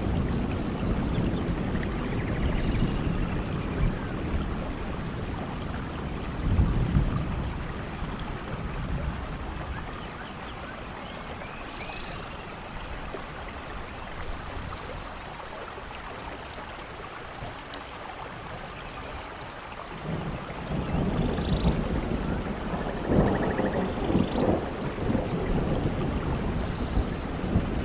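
Steady rain falling during a thunderstorm, with low rolling thunder. The thunder fades away after the first few seconds and builds again about twenty seconds in.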